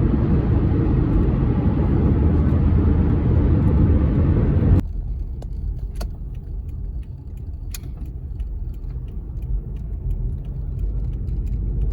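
Road noise inside a moving car: a steady low rumble, loud for the first five seconds, then dropping suddenly to a quieter rumble with scattered small clicks.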